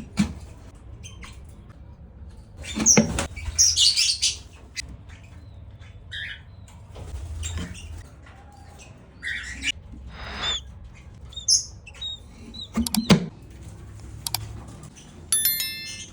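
Parrot giving short chirps and calls in scattered bursts, loudest about three to four seconds in and again near thirteen seconds, over a low steady hum.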